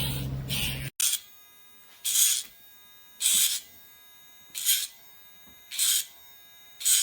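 Casfuy electric dog nail grinder running with a steady motor hum. Short grinding bursts come about every second and a bit as the rotating grinding head touches the nail. A louder, different whirring stops abruptly about a second in.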